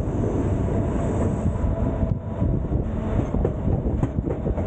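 White Pass & Yukon Route open-platform passenger car rolling along the track: a steady rumble with irregular rattles and clacks from the wheels on the rails and the car body.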